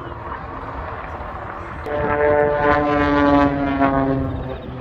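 Propeller engine of a Mudry CAP aerobatic monoplane during a display pass: a steady drone that swells into a louder, pitched engine hum about two seconds in and fades near the end.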